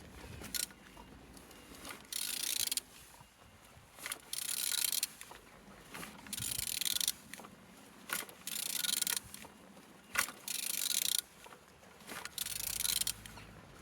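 Engine being turned over by hand. About six rasping strokes come roughly every two seconds, with a few sharp clicks between them. It turns freely and well, a sign it is not seized.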